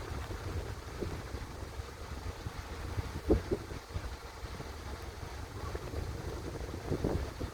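Wind buffeting the microphone, a steady low rumble, with a few short knocks about a second in, around three and a half seconds in, and near the end.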